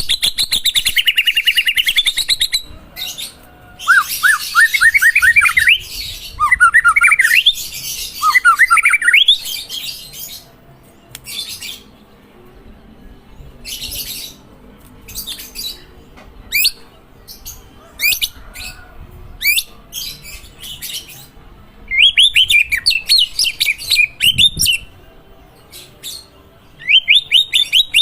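White-rumped shama singing: a fast buzzy trill, then quick series of slurred whistled notes, then scattered sharp short notes with pauses between, and further rapid runs of notes near the end.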